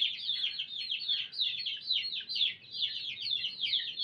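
Many birds chirping at once: a dense chatter of quick, high chirps, each sliding downward.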